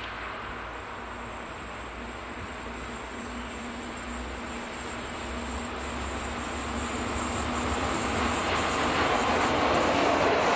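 Train hauled by an electric locomotive approaching on the track and passing close by. Its rumble and rail noise grow steadily louder and peak as the locomotive goes past near the end.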